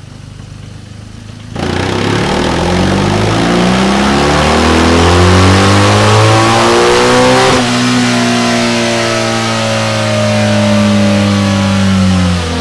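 BMW R1200GS boxer-twin engine through a Tri-Oval stainless steel aftermarket silencer, running on a dyno. It idles briefly, then the throttle opens about a second and a half in and the revs climb steadily for about six seconds, before easing off and falling slowly.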